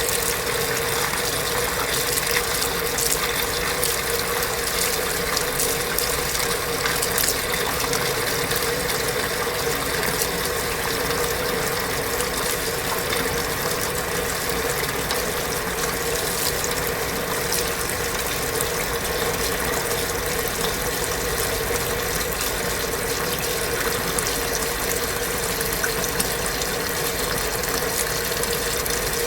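Kenmore belt-drive portable washing machine running mid-cycle: a steady motor hum with water rushing and mechanical whirring throughout.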